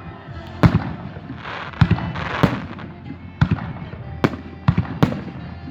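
Fireworks going off: about seven sharp bangs at irregular intervals, with crackling between them.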